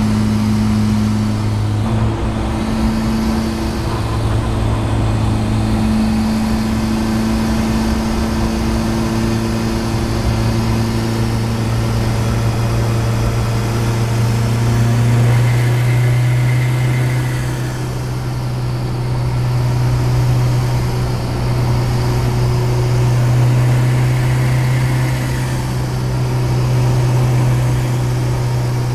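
The 1984 VW Rabbit's turbocharged four-cylinder diesel heard from inside the cabin, running hard at high, steady revs under a long pull, with road noise underneath.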